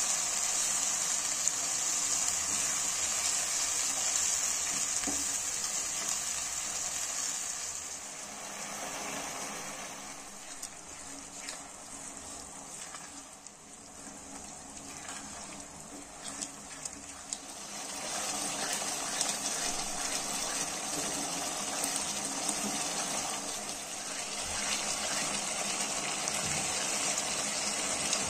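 Mutton keema in tomato masala sizzling as it fries over a high flame in a non-stick kadai while a wooden spatula stirs it: the sauté stage, cooking until the oil separates. The sizzle drops quieter for a stretch in the middle, where a few light taps of the spatula come through, then rises again.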